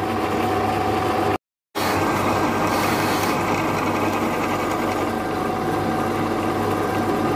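A small engine running steadily. The sound drops out completely for a moment about a second and a half in.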